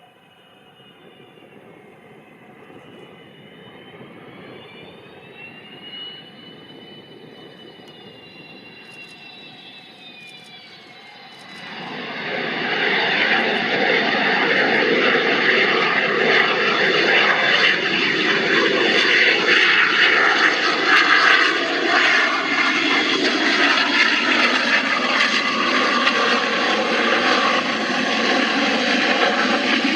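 Yakovlev Yak-40 jet with three Progress AI-25 turbofans: a high engine whine that wavers in pitch, then about twelve seconds in a loud jet roar takes over and holds.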